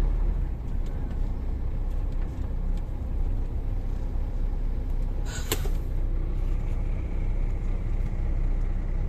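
Truck cab interior with the diesel engine running steadily as the truck creeps forward, a low rumble throughout. About five seconds in there is a brief sharp hiss of air.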